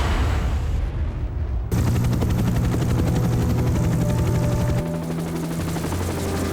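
Helicopter in flight: turbine and rotor noise with a fast, steady rotor chop and a low drone. The first second and a half holds a different low rumble, which cuts off abruptly when the helicopter sound begins.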